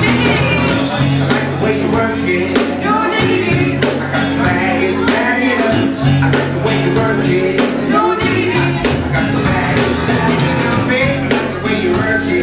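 Loud live band music: drums, a steady bass line and a vocal over it.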